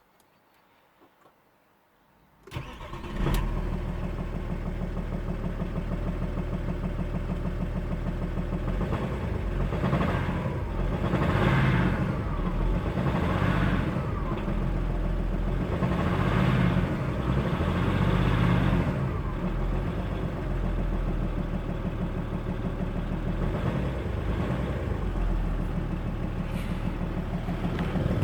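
Audi A6 C5 2.5 TDI V6 diesel engine cranked and catching about two and a half seconds in, after a few small clicks. It then runs with a fast, even low pulsing and is revved up several times in the middle. The owner presents this as an engine knock.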